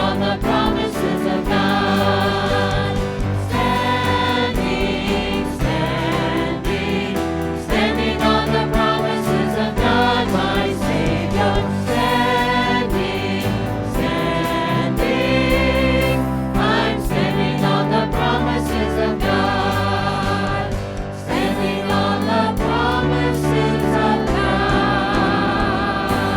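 Church worship music: a choir or congregation singing with instrumental accompaniment.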